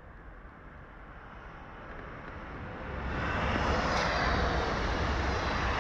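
Regio 2N double-deck electric multiple unit (Z 55500 series) approaching and passing at speed. Its rail and wheel noise grows from about two seconds in and is loud from about three seconds, with a faint high whine above it and a sharp click about four seconds in.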